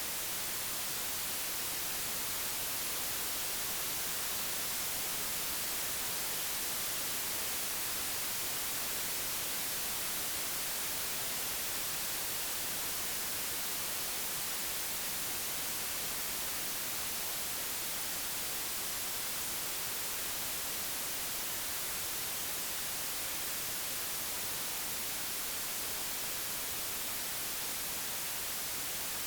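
Steady, unchanging digitally generated white noise, an even hiss strongest in the highest frequencies.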